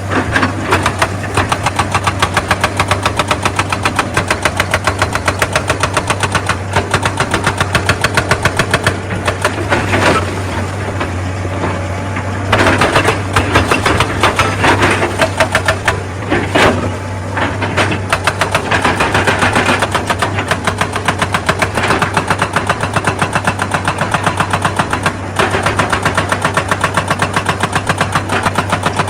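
Excavator's hydraulic rock breaker hammering stone in a rapid, even rhythm over the steady hum of the diesel engine, with a few louder crashing stretches around the middle.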